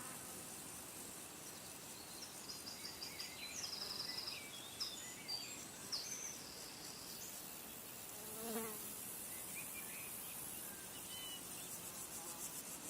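Outdoor nature ambience of insects buzzing steadily, with birds chirping and trilling now and then. A short, lower pitched call sounds about eight seconds in.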